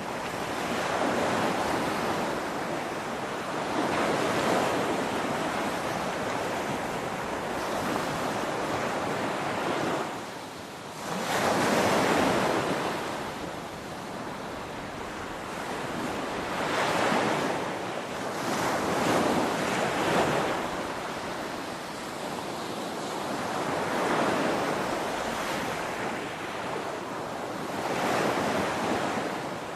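Ocean waves breaking on a shore, a steady wash of surf that swells and eases every few seconds; the strongest break comes about twelve seconds in, just after a brief lull.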